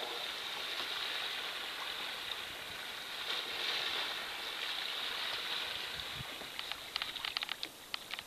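Water swishing and lapping around a kayak, steady throughout, with a quick run of small taps and drips near the end.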